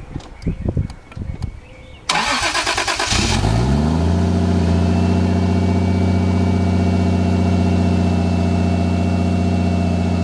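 Freshly swapped engine in a 1989 Toyota Supra Turbo cranked by its starter about two seconds in, catching about a second later and rising in pitch, then running at a steady fast idle on its first start.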